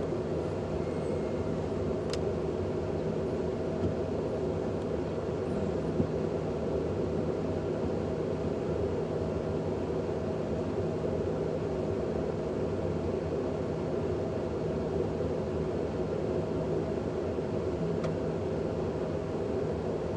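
Dodge Ram 1500 pickup running, a steady low drone with no change in pitch.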